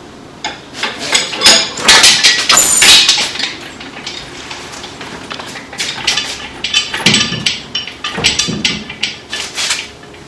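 Bursts of clanking and knocking as an engine is lowered on a hoist into a truck's engine bay: one cluster of sharp knocks in the first few seconds and another in the second half.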